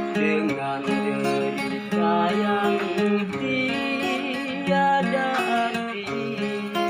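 Acoustic guitar playing a song's instrumental intro, a repeating picked chord pattern with a wavering melody line above it.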